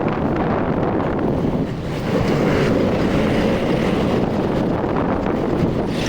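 Wind rushing and buffeting over the microphone of a moving motorcycle, a loud steady roar of noise that dips briefly about two seconds in.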